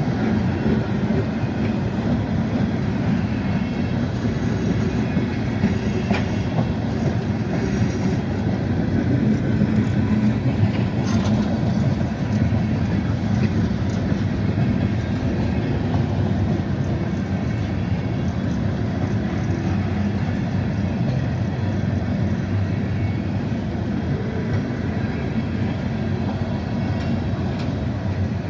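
Freight train rolling past, a steady rumble of its wheels on the rails with faint clicks of wheels crossing rail joints.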